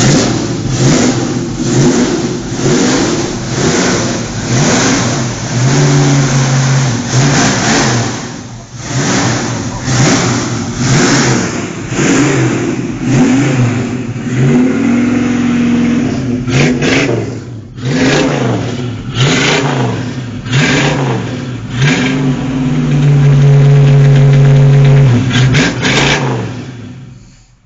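Ford Mustang's 4.7-litre V8 revved repeatedly through a custom twin-exit block-back exhaust, in quick blips that rise and fall in pitch. Near the end comes a longer held rev, then the engine drops away.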